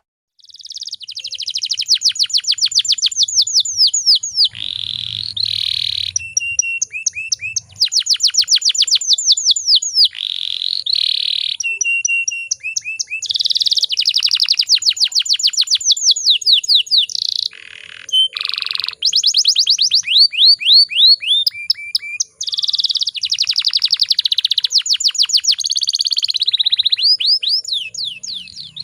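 Domestic canary singing a long, almost unbroken song of rapid trills: fast runs of repeated down-slurred notes at changing speeds, broken by short buzzy held notes and slower, lower-pitched note series.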